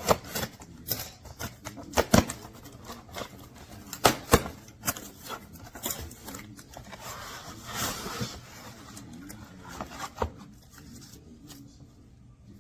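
Close-up handling noises: a run of sharp clicks and knocks, with a stretch of rustling and scraping about eight seconds in.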